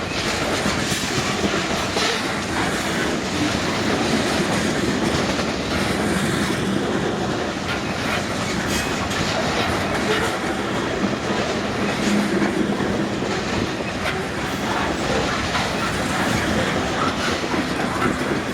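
Loaded freight cars of a 100-car unit train rolling past at speed: steady noise of steel wheels on rail, with faint scattered clicks.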